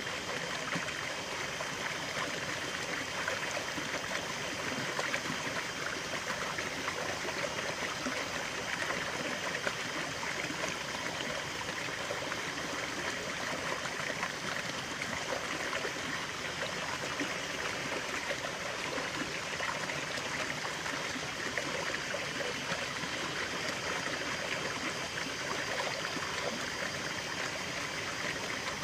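Running water in a stream, trickling and gurgling steadily.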